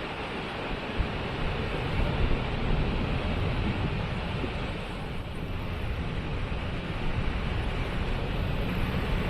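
Waterfall: a steady rush of falling water, with a low rumble underneath that rises and falls.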